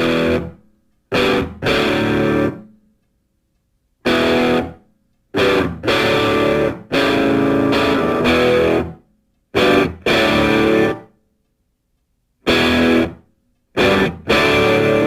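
Rock music on a distorted electric guitar: chords struck in short stop-start bursts, with dead silences between them and some chords held for a second or two. It settles into a held chord near the end.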